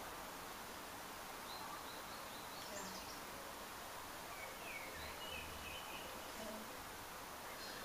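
Faint steady background hiss with a few faint, short bird chirps.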